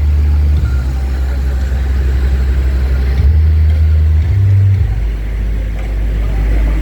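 Very loud deep bass notes from a 'sound horeg' parade sound system, holding steady low pitches and stepping abruptly to new ones about every one to two seconds, with a drop to a deeper note a little after the midpoint.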